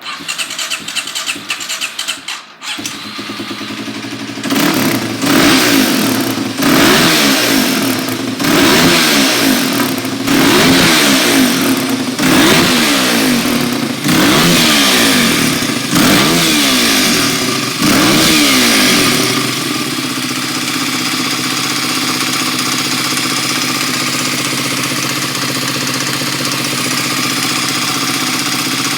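A Kawasaki D-Tracker 292cc single-cylinder motorcycle engine is started and catches within the first three seconds. It is then revved in short blips about every two seconds, about eight times. From about two-thirds of the way through it settles into a steady idle.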